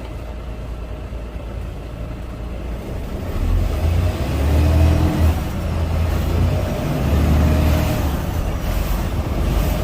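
Semi truck's diesel engine heard from inside the cab while driving, with a steady low rumble that grows louder about three and a half seconds in as the truck accelerates.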